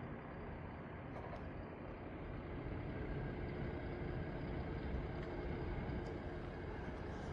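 Diesel engines of harvest machinery (combine harvesters and a tractor) running steadily, growing slightly louder through the middle.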